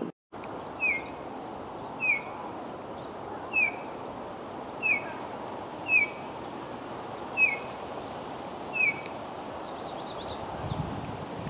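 A bird calling: a short, down-slurred note repeated seven times at an even pace, about one every 1.3 seconds, over steady background noise, with a brief flurry of higher, fainter notes near the end.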